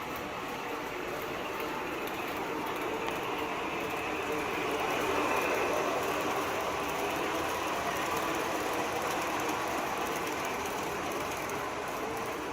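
MTH O-gauge R-40 Slant model subway train running along three-rail track: a steady mechanical whir of its gear-driven motors and wheels on the rails, mixed with the running sound from its onboard sound system. It gets a little louder toward the middle.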